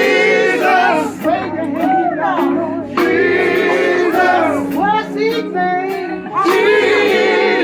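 A gospel vocal group singing with band accompaniment, voices holding long, sliding notes in harmony.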